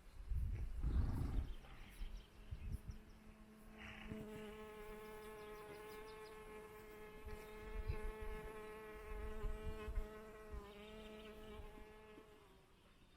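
A flying insect buzzing at one steady pitch for about nine seconds, starting about four seconds in. Low knocks and rumbling come in the first two seconds.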